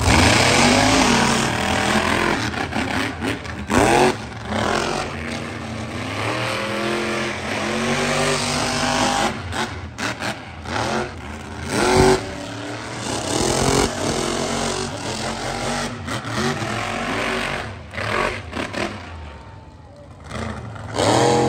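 Monster truck engine revving hard, its pitch climbing and dropping over and over as the throttle is worked, with several sudden loud jolts along the way. It fades near the end.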